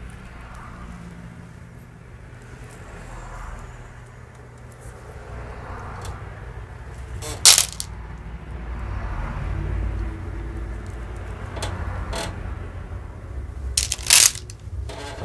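Jewelry pieces and beads being handled and dropped into a box: a low rustle of handling with a few sharp clinks, the loudest about seven seconds in and two more near the end.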